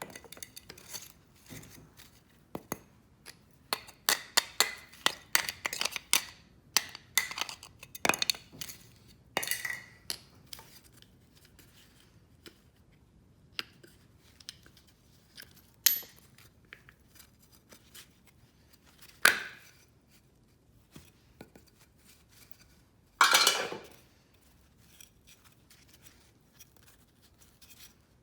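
Small metal parts and hand tools clicking and clinking while vacuum-cleaner scrap is taken apart for its copper. There are quick runs of sharp clicks in the first ten seconds or so, then a few single clicks, a brief scrape a little before the end and a longer one about a second long near the end.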